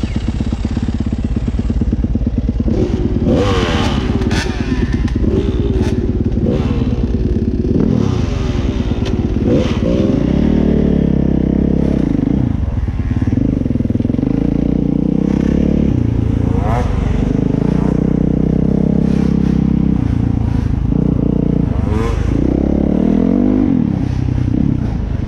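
Dirt bike engine ridden hard at full throttle, its revs climbing and dropping over and over, with longer held stretches in the second half and scattered clattering knocks. The rider is trying out an engine map setting.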